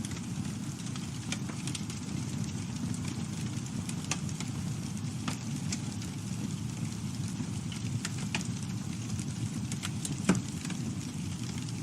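Campfire burning with a steady low rumble, wood crackling and popping now and then, and one louder pop about ten seconds in.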